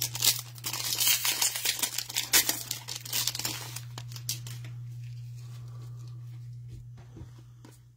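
Plastic-foil trading card pack wrapper being torn open and crinkled in the hands, with crackling that thins out after about four seconds, over a steady low electrical hum.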